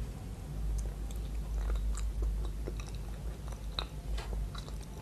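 Close-up chewing of a soft, powder-dusted sweet: a bite, then wet mouth clicks and soft crackles, over a steady low hum.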